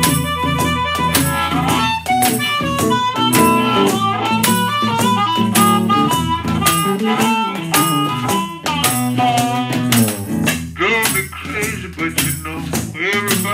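Chicago blues band playing an instrumental passage: a harmonica lead with bent, held notes over guitar and the steady rattling beat of a washboard.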